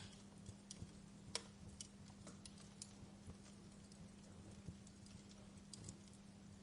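Wood fire crackling softly: scattered, irregular small pops and snaps, one sharper pop about a second and a half in, over a faint steady low hum.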